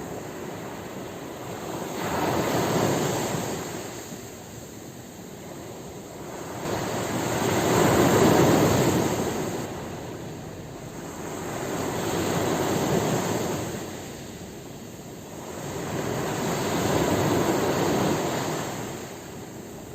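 Sea waves breaking and washing on a shore, the surf rising and falling in four slow swells, one every four to five seconds, the loudest about eight seconds in.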